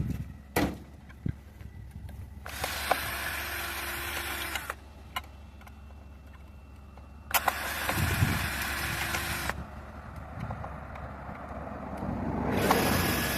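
A small electric motor, like a power tool or power window, running in three bursts of about two seconds each, starting and stopping abruptly.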